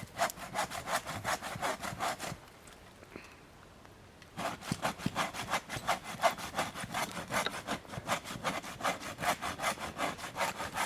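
Hand saw cutting through a standing tree trunk to fell it, in quick back-and-forth strokes. The sawing stops for about two seconds a couple of seconds in, then picks up again.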